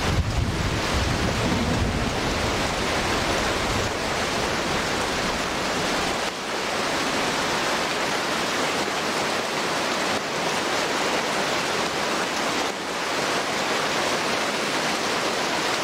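Heavy tropical rain falling steadily on rainforest foliage, an even hiss. A low rumble under it fades out in the first few seconds.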